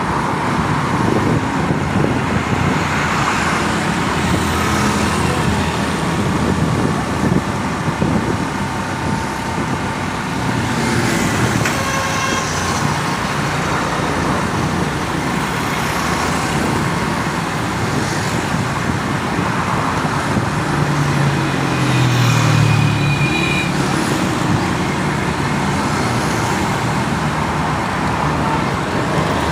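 Busy road traffic: a steady mix of vehicle engines and tyres. Short horn toots sound about a third of the way in and again past two-thirds, and a heavier engine passes close just before the second toot.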